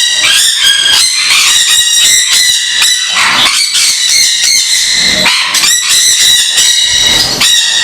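A colony of caged parrots screeching and squawking, many loud, high-pitched calls overlapping without a break.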